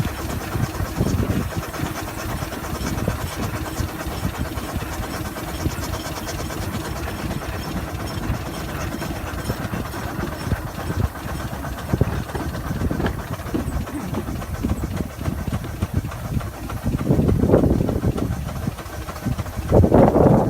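A 6-inch scale Burrell double-crank compound showman's steam traction engine running on the road, a continuous mechanical rumble with steam hiss. The rumble swells louder about 17 seconds in and again near the end.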